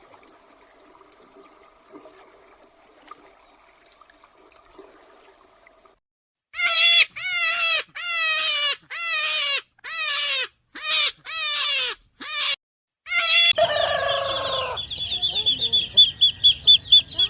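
Domestic chickens calling: after a few seconds of faint background, about ten loud, harsh calls about half a second each, then from near the end a busier run of rapid, high-pitched clucking and cheeping.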